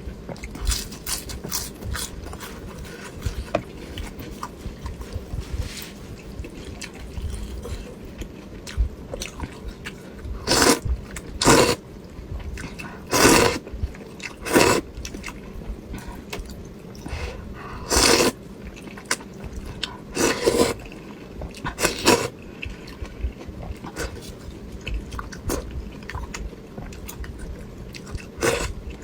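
Close-miked eating of duck blood vermicelli soup: continual soft chewing with wet clicks, broken by about eight louder short slurps, bunched in the middle and one near the end.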